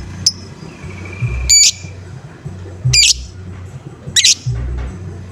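Lovebird giving short, harsh 'ngoek' squawks, four of them about one to one and a half seconds apart, one preceded by a held thin note. A steady low beat runs underneath.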